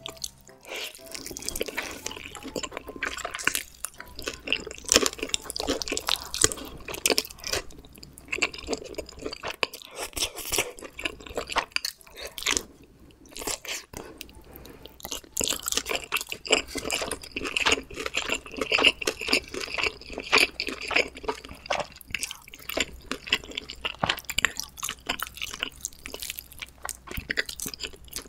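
Close-miked chewing and biting of homemade pizza: wet mouth sounds with some crunchy bites, in irregular runs with a brief pause about halfway through.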